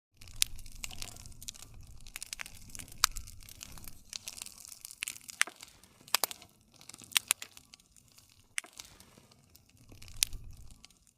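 Wood campfire crackling, with irregular sharp pops and snaps over a low, uneven rush from the burning logs.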